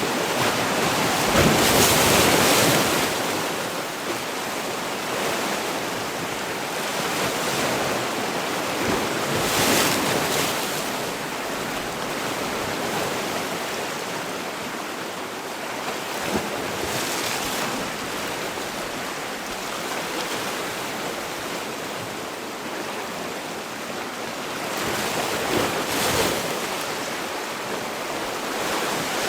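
Sea waves breaking and washing on the shore, with louder surges of surf roughly every eight seconds over a steady rush of water.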